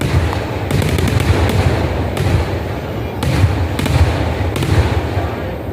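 A continuous barrage of festival fireworks exploding: a dense, unbroken low booming, with sharper cracks standing out about every half second to a second.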